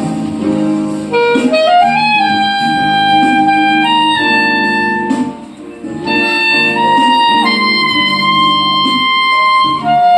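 A clarinet playing a slow romantic melody of long held notes over a soft chordal accompaniment, with a short breath between phrases about halfway through.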